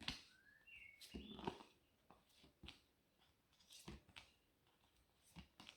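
Faint scattered clicks and rustles of a pack of flashcards being handled, with a few short high chirps in the first second and a half.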